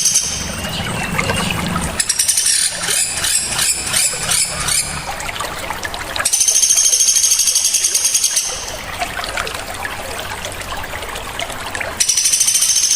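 Small songbirds calling shrilly: sharp, very high, rapid buzzing trills come twice, the second near the end, with a stretch of dense mixed chattering and whistled notes about two seconds in. A steady trickle of running water plays underneath.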